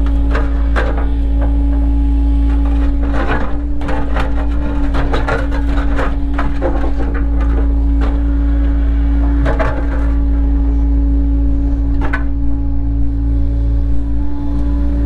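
Cat 307 excavator's diesel engine running steadily, with irregular sharp knocks and cracks from the machine's work, several coming close together a few seconds in and single ones later.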